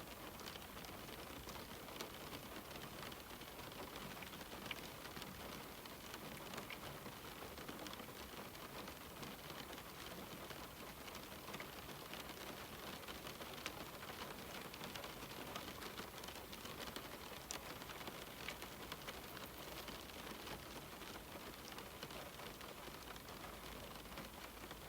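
Steady rain falling on a window, an even hiss with many small scattered drop ticks against the glass.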